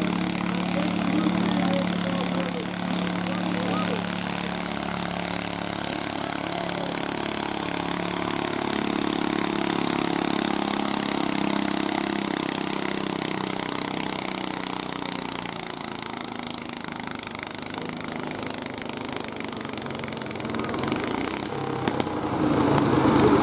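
Small garden tractor engine running, its pitch shifting through the first half and then fading. A louder noise starts near the end.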